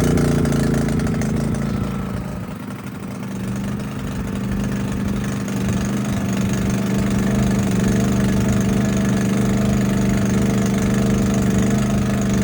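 Generator engine running just after starting: it sags about two seconds in, picks back up and settles into a steady run. The owner takes this uneven running for a dirty carburetor.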